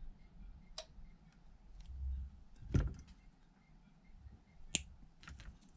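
Scattered clicks and taps of small hand tools and parts being handled on a workbench, with one heavier knock near the middle and a sharp click near the end.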